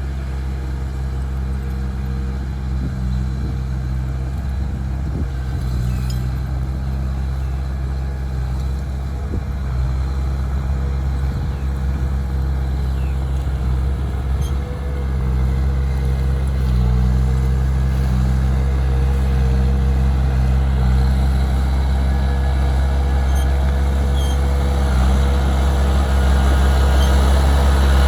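Heavy diesel engine running steadily at a low, even pitch, slowly growing louder with a step up about halfway through.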